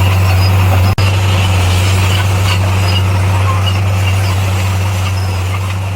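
Diesel engine of a Komatsu D58P crawler bulldozer running steadily at a constant pitch, with a brief break in the sound about a second in.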